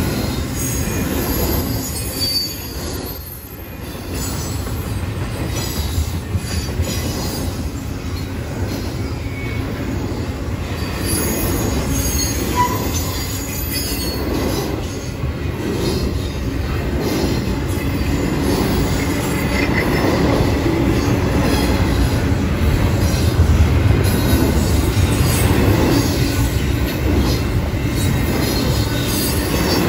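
Double-stack container train's well cars rolling past close by: a steady, loud run of steel wheels on rail, dipping briefly about three seconds in and growing louder over the second half.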